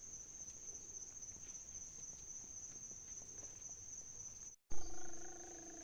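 Steady high-pitched insect chirring. Near the end it breaks off for an instant, then comes a thump and the start of a long pitched call.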